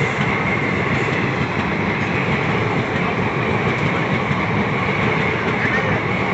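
Express train passenger coaches passing close by at speed: a loud, steady rush of wheels on rail and moving air.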